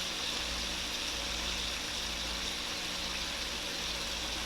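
Chicken legs frying in hot oil, a steady even sizzle, with a faint steady hum underneath.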